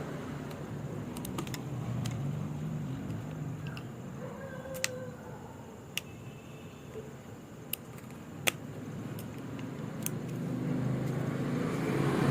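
A few sharp, separate clicks of small engine parts and hand tools being handled during piston fitting on a Yamaha RX100 engine. A low hum of road traffic runs underneath and grows louder near the end.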